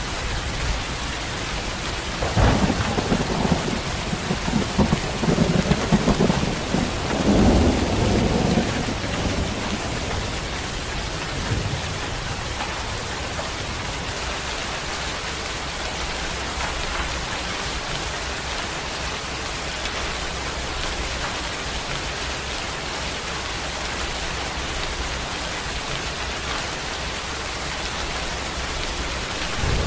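Steady rain falling, with a long roll of thunder that starts about two seconds in and dies away after about nine seconds. Another rumble of thunder begins right at the end.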